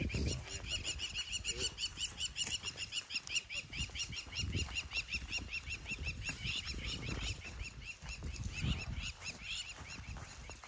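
A bird calling a fast, even series of short, high chirping notes, many a second, kept up almost without a break. Low rustling and thumps sound underneath.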